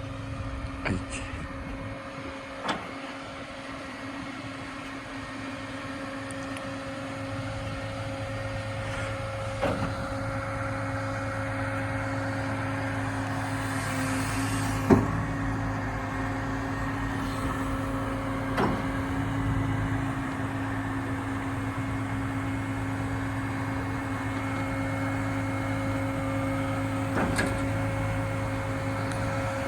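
A truck-mounted HIAB loader crane running, with the Scania's engine and the crane's hydraulics giving a steady drone and whine that grows a little louder partway through. A few sharp clicks or knocks break in, the loudest about halfway.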